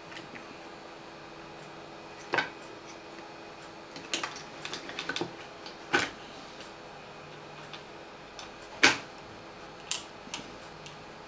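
Light clicks and knocks of small parts and tools being handled on a workbench during reassembly of a small portable radio: a scattered run of light taps about four seconds in, and the sharpest knock a little before nine seconds.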